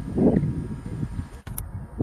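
Low, uneven rumble of a distant electric-hauled passenger train approaching on the track, with a brief dropout about one and a half seconds in.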